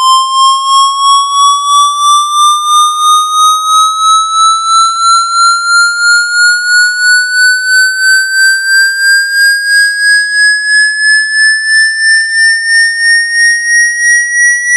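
Synthesized water-eject cleaning tone: one buzzy electronic tone rising slowly in pitch by about an octave, pulsing in loudness roughly three times a second.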